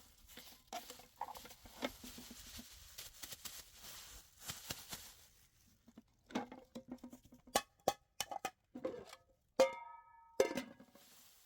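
Objects being handled: scattered knocks and clicks, with a short ringing clink about ten seconds in.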